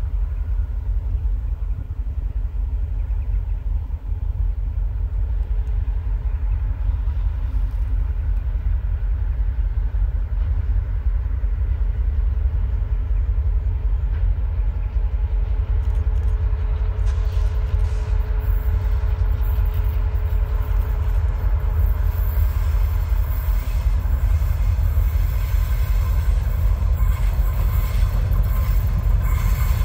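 Freight train running past with a steady low rumble; the rail and wheel noise grows louder and brighter from about halfway through.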